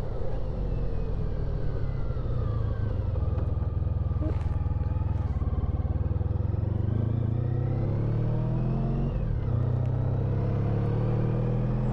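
Honda ST1300 Pan European's V4 engine heard from the saddle while riding, over wind and road noise. The engine note falls as the bike slows, then rises as it pulls away, with a sharp drop about nine seconds in, like a gear change, before it climbs again.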